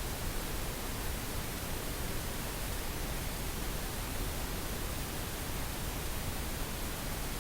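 Synthetic pink noise: a steady, even hiss spread across all pitches, with no tones or breaks.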